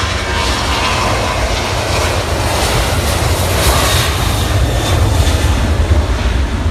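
Airplane engines roaring loudly with a deep rumble, growing a little louder toward the end.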